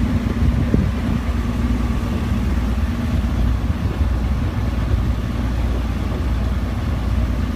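Sailboat's inboard engine running steadily under way, a continuous low drone with a steady hum.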